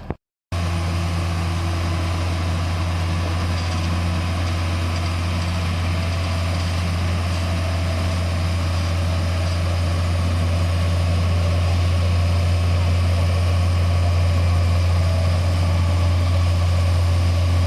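Paddy machine's heavy engine running steadily with a deep, even hum, growing slightly louder towards the end. The sound comes in after a split-second gap at the start.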